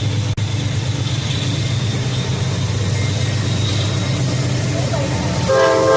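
Diesel locomotive engine running with a steady low rumble; about five and a half seconds in, a multi-chime locomotive air horn starts to blow.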